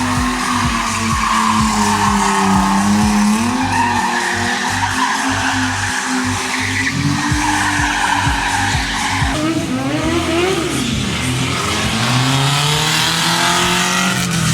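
Monster truck engine running hard and revving, its pitch rising and falling, swooping up and down quickly in the last few seconds.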